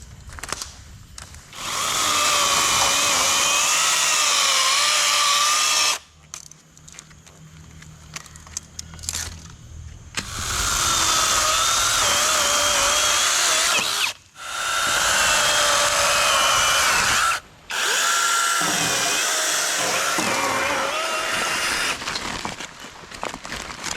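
Small electric power-tool motor running in four long runs with short stops between, its whine wavering up and down as it works under load.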